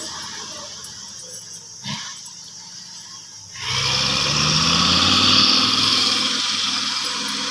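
A logging truck's diesel engine comes in loudly about halfway through and revs up, its pitch rising, with a strong hiss above it. Before that, only a few light clicks are heard.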